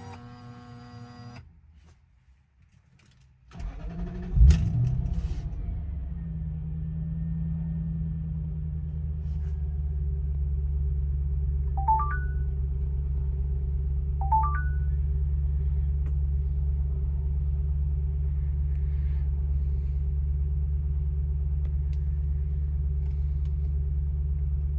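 1999 Lexus GS400's 4.0-litre V8, fitted with a Revel Medallion aftermarket exhaust, cold-started: a brief crank, then it catches with a loud burst about four seconds in. It settles into a steady cold idle.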